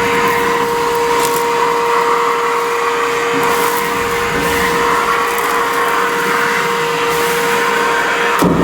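Vacuum cleaner running steadily, a constant motor whine over a rushing hiss, as it sucks dust and debris out of a sheet-metal return air duct. There is a brief knock and dip in the sound near the end.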